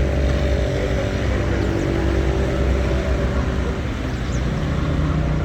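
City street traffic, with a vehicle engine running close by as a steady low rumble over a continuous background hiss.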